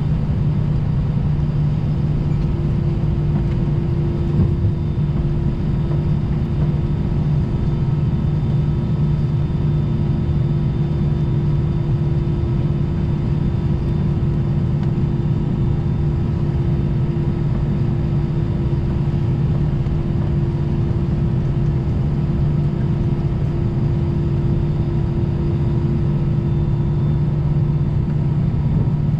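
Airbus A320 cabin noise while taxiing: the jet engines running at low taxi power, heard inside the cabin as a steady low rumble with several steady humming and whining tones.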